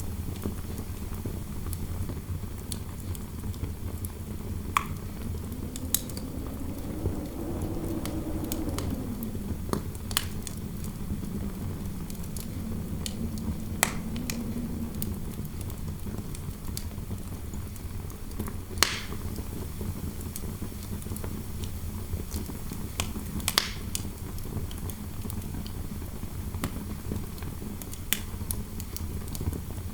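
Fireplace crackling with scattered sharp pops over a steady low wind rumble. A hollow wind howl rises and falls about a quarter of the way in, then returns more faintly a few seconds later.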